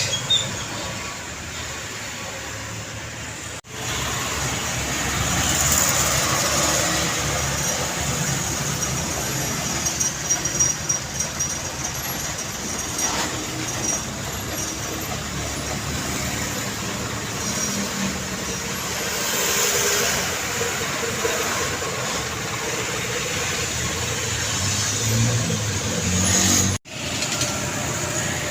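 Road traffic with truck and car engines running and tyre noise as vehicles pass, swelling and fading. The sound breaks off abruptly twice, once about 4 seconds in and once near the end.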